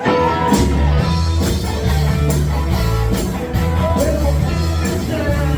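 Live rock band playing, with drums, bass and electric guitar; the bass comes in heavily about half a second in. A voice sings over it.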